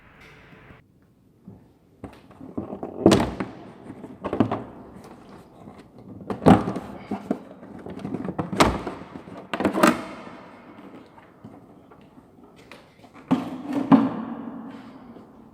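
A series of irregular thunks and clunks, about six sharp knocks with handling noise between them, from parts and tools being handled as work on the car's engine begins.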